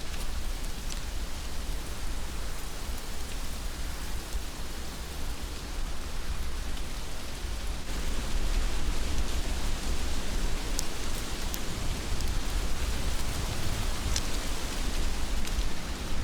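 Heavy rain falling steadily, a dense even hiss over a low rumble, with a few sharp drop ticks; it grows a little louder about halfway through.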